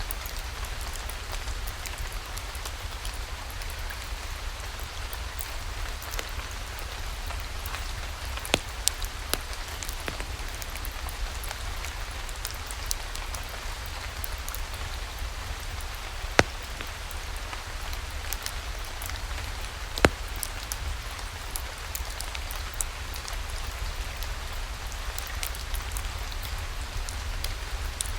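Steady rainfall with a low rumble underneath, broken by a few isolated sharp clicks or pops.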